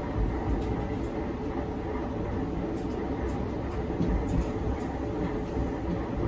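Diesel railcar running along the line, heard from inside near the driver's cab: a steady low rumble of engine and wheels on rail, with a few faint clicks.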